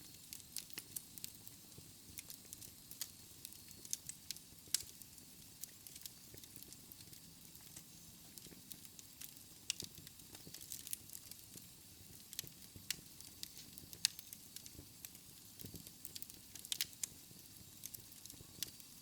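Wood fire crackling in a fireplace: irregular sharp pops and snaps from the burning logs, a few louder ones scattered through, over a soft steady hiss of the flames.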